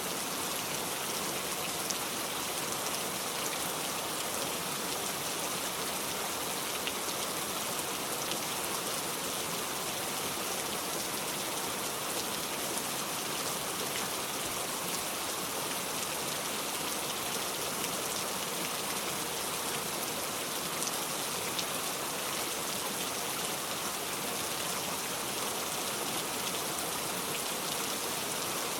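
Steady rain falling: an even hiss with a few faint ticks here and there.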